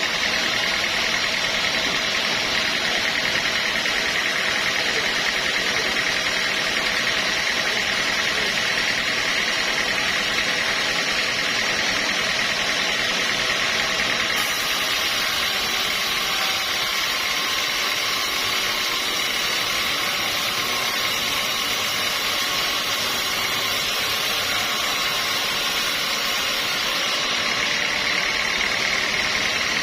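Sawmill machinery running steadily while milling teak wood, a continuous mechanical drone with a steady high whine that eases in the middle and strengthens again near the end.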